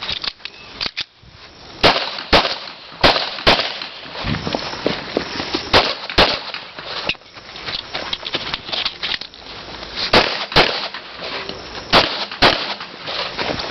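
Pistol shots fired in pairs: five double taps, the two shots of each pair about half a second apart, with a pause of one to several seconds between pairs, as the shooter engages targets on a practical-shooting stage.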